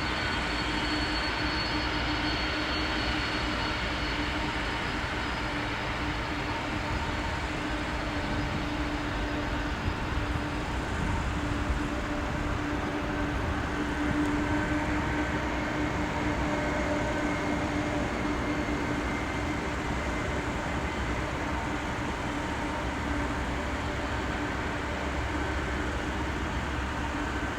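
Boeing 747-400F jet engines running at taxi power: a steady rumble with a constant whine in several tones.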